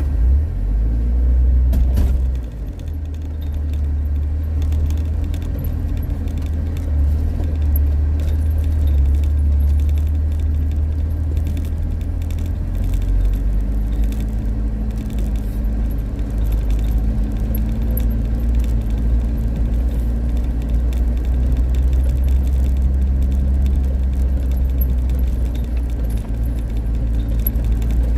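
Suzuki Jimny driving, heard from inside the cabin: a steady low engine and road rumble with light jingling and rattling, like keys swinging in the ignition.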